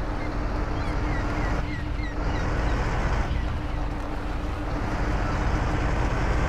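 Truck engine running under way, a steady drone with a low rumble and a constant hum. A few short high chirps sound about two seconds in.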